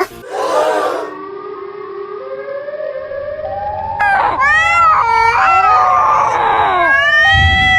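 A civil-defence style warning siren wailing, its pitch rising slowly. From about four seconds in, pitched calls that bend up and down sound over it.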